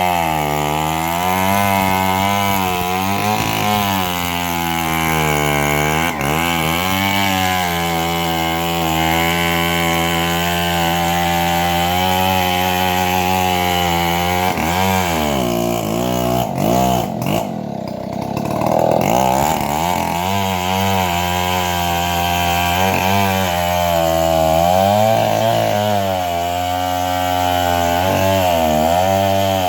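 Two-stroke chainsaw running hard while cutting teak wood. Its pitch keeps rising and falling under load, and it eases off briefly around the middle before revving up again.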